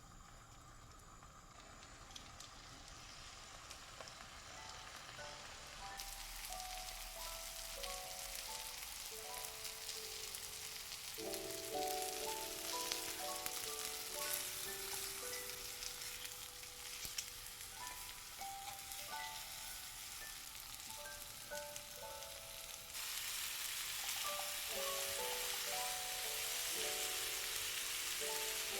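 Food sizzling in a hot frying pan, starting suddenly about six seconds in and growing louder near the end, under a light background melody.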